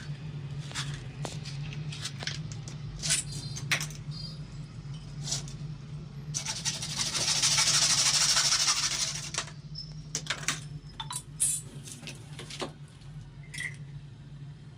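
Plumbing work on CPVC pipe fittings: scattered sharp clicks and knocks as plastic pipe and fittings are handled. About six seconds in, a loud hissing rush lasts roughly three seconds. A steady low hum runs underneath.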